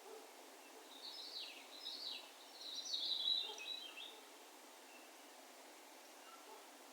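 A bird calling: a run of high chirps and short falling notes in about three bursts over some three seconds, loudest near the end, over a faint steady background hiss.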